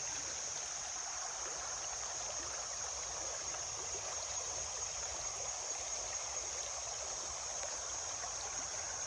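River water running steadily over a shallow bed, an even trickling flow with a constant high-pitched hiss above it.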